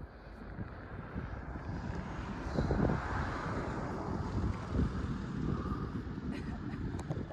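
Rolling thunder rumbling from a thunderstorm, swelling about three seconds in and rumbling on, with wind on the microphone.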